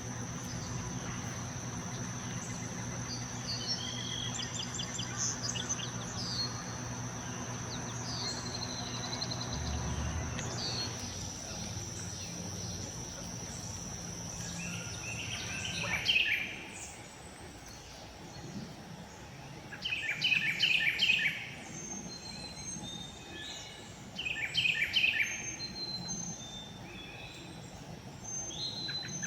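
Outdoor ambience of a steady, high-pitched insect drone with scattered bird calls over a low background hum, which all stop suddenly about halfway through. Then loud bursts of bird song come three times, a few seconds apart.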